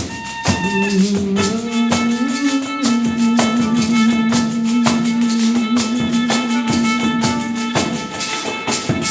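Live Brazilian percussion music: an ensemble of pandeiros, frame drums with jingles, playing a quick, even rhythm under a long held low note that stops about a second before the end.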